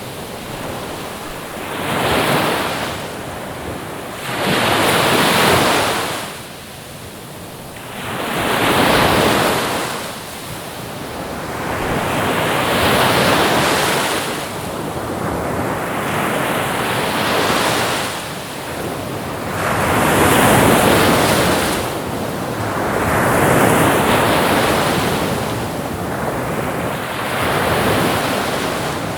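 Ocean waves breaking and washing in, the surf swelling and fading roughly every three to four seconds.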